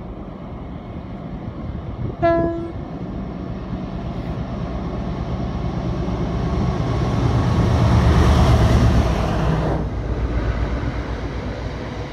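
Locomotive-hauled passenger train approaching gives one short horn blast about two seconds in. Its engine rumble and wheel noise then build to a loud peak as the locomotive passes beneath, drop sharply just before ten seconds as it clears, and the coaches roll steadily past.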